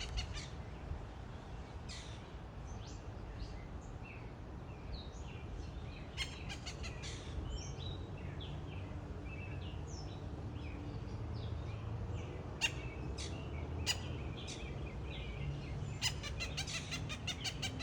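Blue jay calling: short chirps and two runs of rapid clicking, one near the start and one near the end, over a steady low rumble of outdoor background noise.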